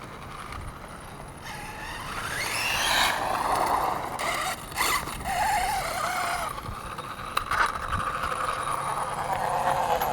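1/5-scale Redcat Rampage MT RC monster truck driving at a little over half throttle, its drivetrain whining and rising in pitch as it speeds up about two seconds in, with a couple of sharp clicks partway through. The owner puts the gear noise down to the front differential's crown gear, which is missing a tooth.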